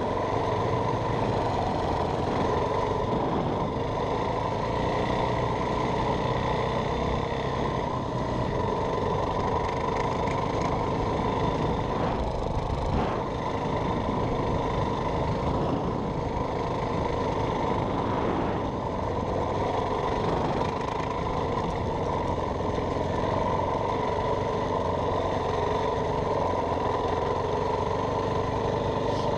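Yamaha WR450F dirt bike's single-cylinder four-stroke engine running steadily at an even pitch and loudness.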